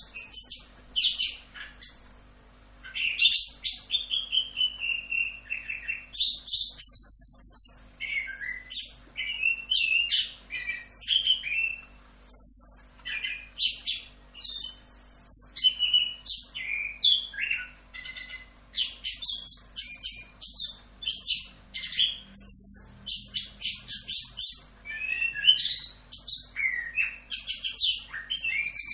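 Chestnut-capped thrush (anis kembang) singing a long, fast, unbroken run of varied chirps and whistles, with one short pause about two seconds in.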